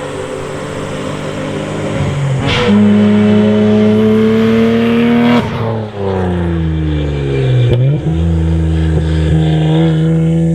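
Toyota JZX90 Mark II's 1JZ-GTE twin-turbo straight-six through a dual exhaust, being driven: the engine note jumps up about two and a half seconds in and climbs slowly under throttle, drops away when the throttle closes about five and a half seconds in, falls in pitch, then settles into a steady note.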